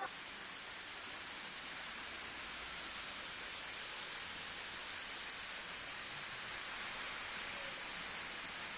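Rushing floodwater: a steady, even hiss that starts abruptly.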